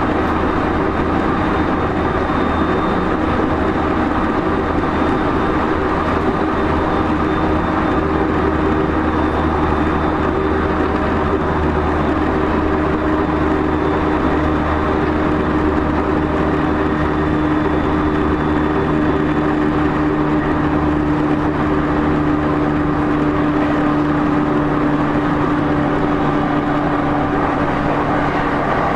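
Running noise inside the motor car of an E231-0 series electric commuter train moving between stations: a steady drone from the traction motors, gears and wheels on the rails, with a steady humming tone and a faint high whine that fades out.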